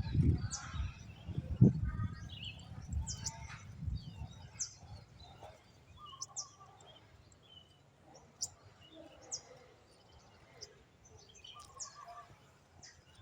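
Birds chirping outdoors: short, high notes sliding quickly downward, repeated every second or so, with a few lower calls among them. Handling knocks and rustling sound close by over the first few seconds, then die away.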